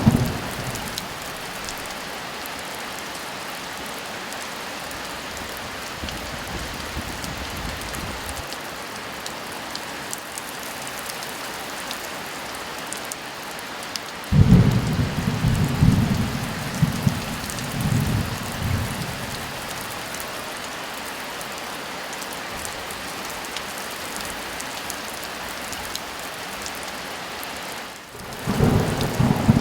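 Steady heavy rain with thunder: a sudden thunderclap about halfway through rolls on in several rumbles for about five seconds, and another begins near the end.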